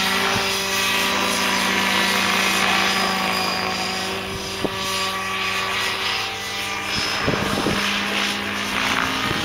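Engine-powered radio-controlled model helicopter running steadily in flight, its engine and rotor holding a constant pitch.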